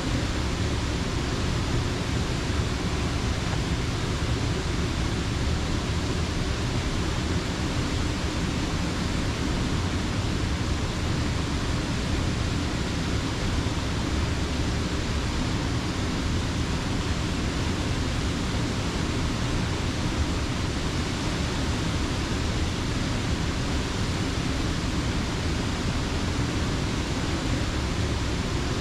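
Creek water rushing steadily: a dense, even noise that neither rises nor falls.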